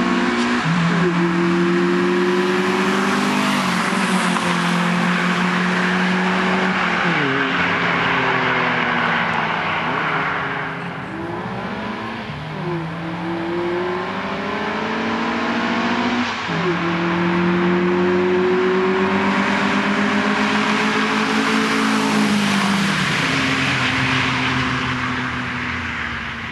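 Two Honda Civic hatchbacks' four-cylinder engines, a D16Z6 and a D15Z6, accelerating hard side by side. The engine pitch climbs through each gear and drops sharply at every upshift, several times over.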